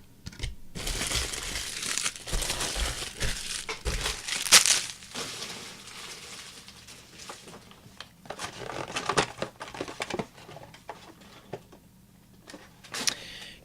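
Plastic trading-card pack wrappers crinkling as packs are handled and torn open, with a sharp snap about four and a half seconds in and more scattered crackles later.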